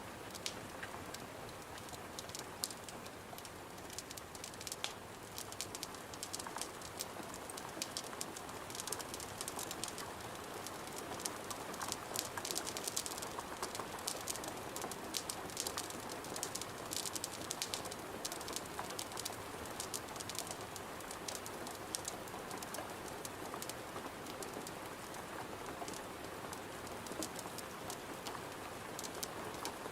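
Steady rain against a window, mixed with the crackling of a wood fire: a continuous hiss with a dense scatter of sharp ticks and pops, busiest a little under halfway through.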